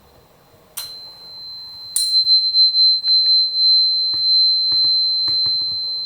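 A tuning fork struck twice, about a second in and again more strongly at two seconds, ringing a steady high tone that keeps sounding.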